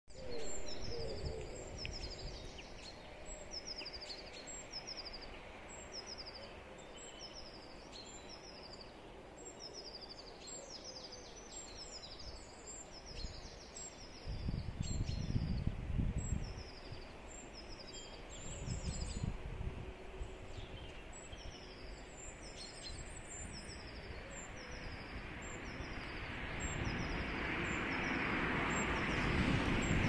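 Songbirds chirping: short, high notes that slide downward, repeated over and over with several birds overlapping. Low rumbles come and go in the middle, and a hiss swells near the end.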